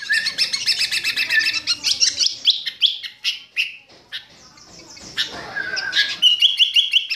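Bird chirping in quick high trills, then slower single notes, with a lull about four seconds in and a run of evenly repeated chirps near the end.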